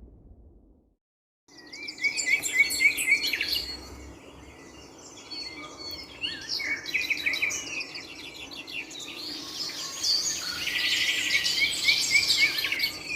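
Several birds chirping and singing together, many short repeated chirps and quick up-and-down notes, starting suddenly about a second and a half in over a faint steady hum. Just before, a fading boom dies away into near silence.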